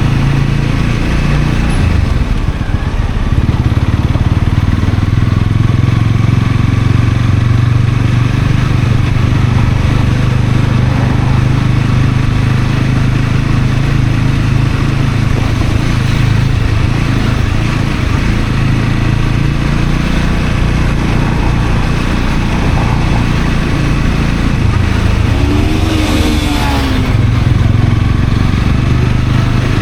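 Honda CL250's single-cylinder engine running at steady revs. Near the end a short sound rises and then falls in pitch over it.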